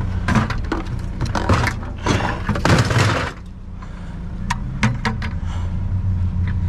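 Clattering and rattling of hard objects being handled for about three seconds, then a few sharp clicks, over the steady low hum of an idling truck engine.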